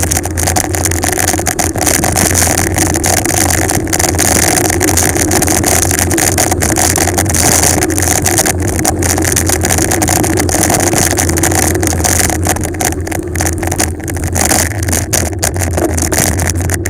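Loud, steady wind rush over the microphone from riding fast downhill on a bicycle, with a deep rumble and flutter as the air buffets it.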